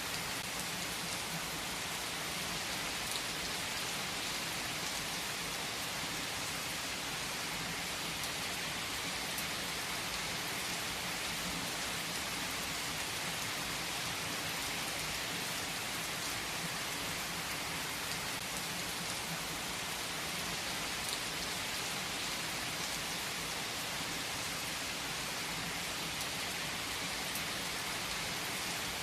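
Steady rain falling, a dense even patter, with a few faint clicks here and there.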